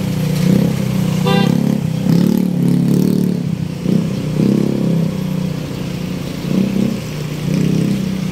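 Street traffic with motorcycles and cars running past, and a short horn beep about a second in.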